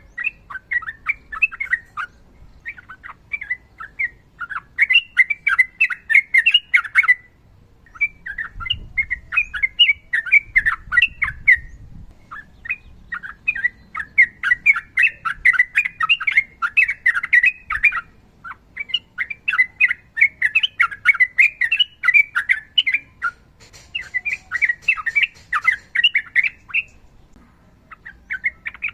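Yellow-vented bulbul (trucukan) singing long runs of rapid chattering notes, in phrases of several seconds broken by short pauses.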